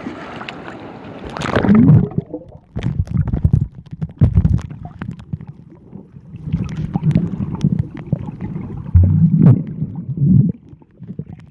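Sea water sloshing and gurgling close against the microphone, with irregular low thumps and clicks. A hiss of wind and surf at the start cuts off about two seconds in.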